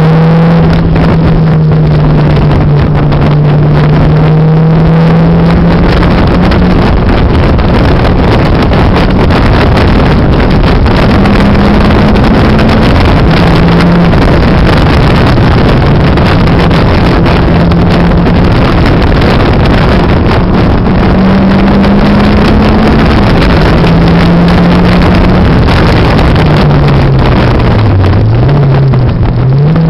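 Turbocharged Mazda MX-5's four-cylinder engine pulling hard at track speed, heard from inside the cabin over heavy wind and road noise. The engine note stays loud, stepping up and down in pitch a few times and dipping briefly, then climbing again near the end.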